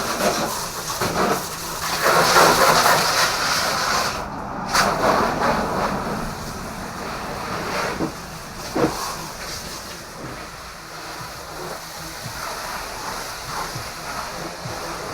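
Water spraying from a hose nozzle onto a truck's body to rinse off loose dirt, the spray swelling and fading as it sweeps and breaking off briefly about four seconds in.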